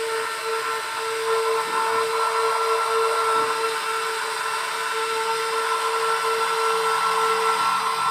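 Small electric motors of a WLtoys XK 16800 RC excavator whining steadily, one strong steady tone with a higher one above it, as the model digs.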